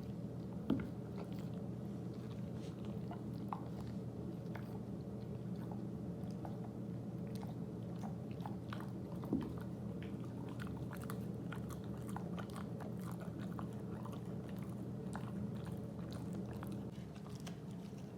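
Siberian husky gnawing on a chew, with many small scattered crunches and cracks and two louder knocks, over a steady low hum.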